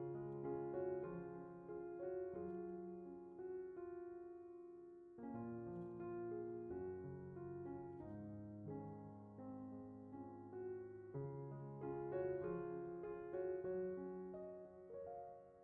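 Soft background piano music: slow, gentle phrases of held notes.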